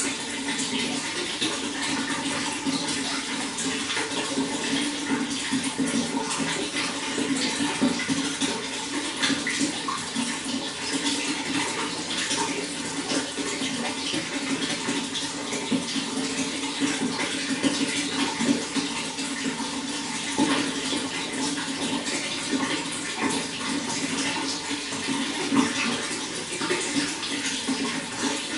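Running water flowing steadily: an even, unbroken rush with fine splashing throughout.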